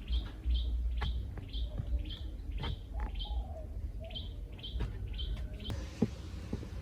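A bird chirping repeatedly, short high chirps about two a second, over a low rumble with scattered sharp knocks. A hissing noise comes in near the end.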